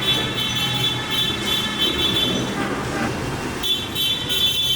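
Car horns sounding in short repeated blasts over the rumble of traffic, in twice-broken spells near the start and again near the end.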